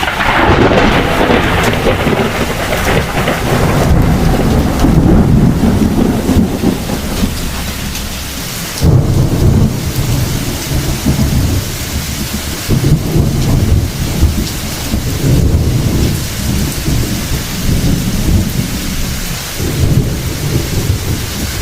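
Heavy rain falling steadily while thunder rumbles, with a loud crack of thunder right at the start and a fresh surge of rumbling about nine seconds in.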